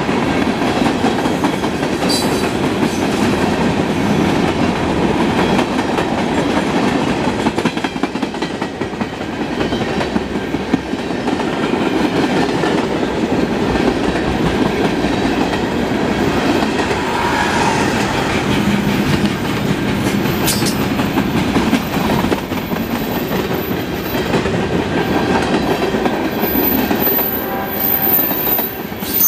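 Freight cars of a mixed freight train, covered hoppers and tank cars, rolling past close by: a steady rumble of steel wheels on the rails.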